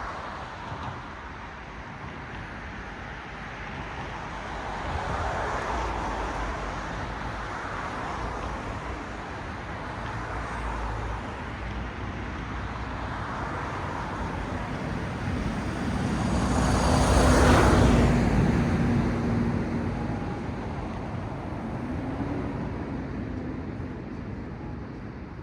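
Road traffic: cars passing one after another, their tyre and engine noise swelling and fading over a steady background rush. One vehicle passes much louder about two-thirds of the way through, with a low engine hum as it goes by.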